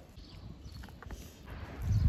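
Close-up eating sounds: chewing and lip smacking, with a few sharp mouth clicks about a second in. A louder low thump comes near the end.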